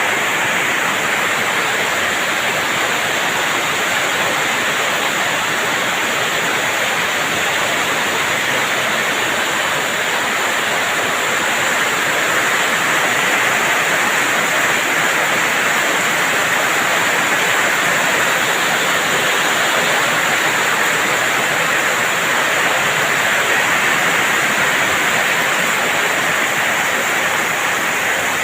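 Heavy rain falling, a steady loud hiss without breaks.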